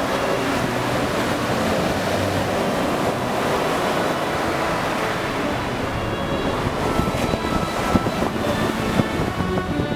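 Baltic Sea waves washing in as a steady surf, with wind buffeting the microphone. Faint steady tones creep in during the second half, as music begins to fade in.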